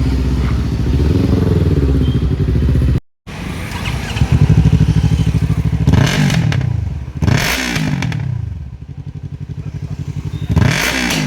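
Yamaha R3's 321 cc parallel-twin running very loud through a Devil Evolution full-system exhaust with the dB killer removed. It runs steadily, then after a brief cut it is blipped three times, each rev rising and falling back with a sharp crack at its peak and a pulsing idle in between.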